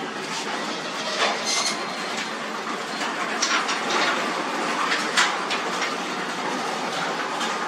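Garage door moving along its metal tracks on its old rollers: a steady rattling rumble with scattered sharp clacks. This is the noise the owner blames on the old rollers and wants to quiet by replacing them.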